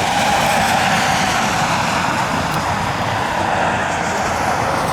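Jet engines of airliners taxiing near the runway end: a steady rush with a faint high whine running through it.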